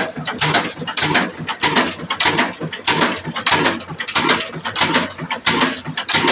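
Old black single-cylinder diesel engine running with a rapid, uneven knocking beat, roughly two to three sharp knocks a second over a low hum.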